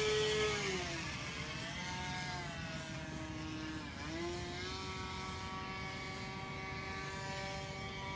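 OS 25FX glow engine on a radio-control model plane, running with a high buzzing tone. Its pitch drops about a second in and again near four seconds, then climbs back and holds steady. The engine is in poor shape from rusted internal bearings and can hardly be throttled down, and its sound is odd.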